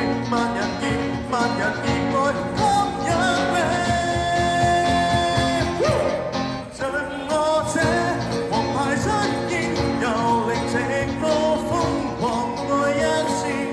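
Live busking band playing an instrumental passage of a Cantopop-rock song, with a lead line holding long notes and bending between them over the full band.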